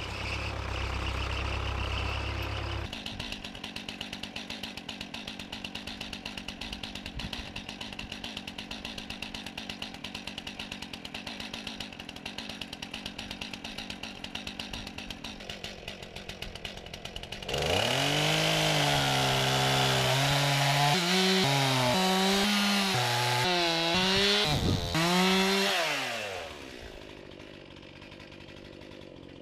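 Chainsaw running, first at a steady buzz, then revved hard about two-thirds of the way in and held at high speed for several seconds with its pitch wavering and dipping, before dropping back down. A lower engine rumble is heard at the very start.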